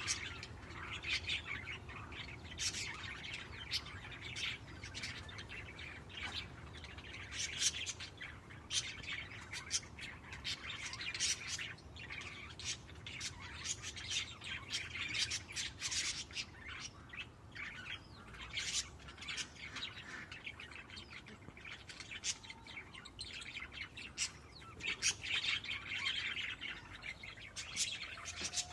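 A flock of budgerigars chirping and chattering, with many short, quick high calls overlapping without pause.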